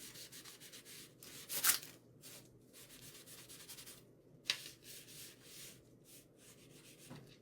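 Sponge rubbing stain onto a bare wooden shelf: a run of soft scrubbing strokes, with two sharper scrapes about one and a half and four and a half seconds in.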